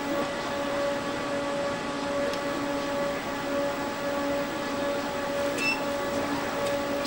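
Steady electrical hum with several constant tones over a hiss, from control-room broadcast equipment.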